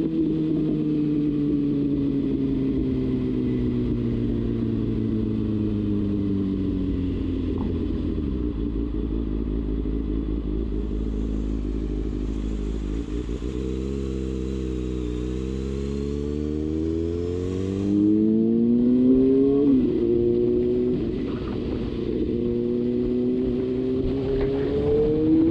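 Kawasaki Ninja ZX-6R inline-four engine under way: the revs fall off over the first several seconds, hold low, then climb for about five seconds to a quick upshift, and climb again near the end.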